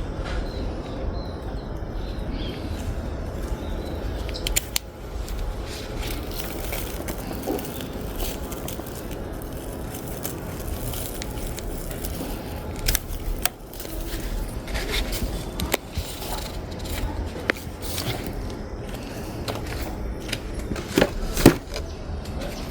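Garden plants being handled while vegetables are harvested: rustling, with irregular snaps and clicks of stems and leaves, the sharpest near the end, over a steady low rumble.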